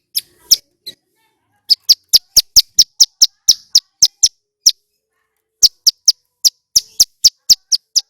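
Male ciblek gunung (prenjak gunung) calling loudly: a fast series of short, sharp, high chirps, about four a second. It pauses briefly in the middle and then starts again.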